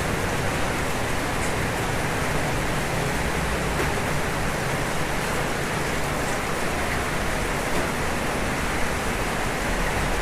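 Steady rain falling on a roof: a constant, even hiss without separate drops standing out.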